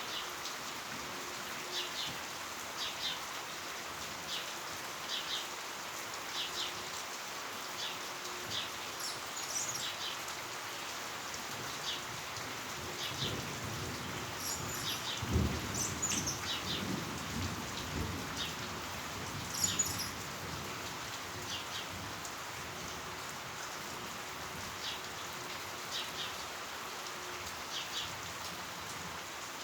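Heavy rain falling steadily. Short high chirps come every second or two, and a low rumble rises about halfway through and fades over a couple of seconds.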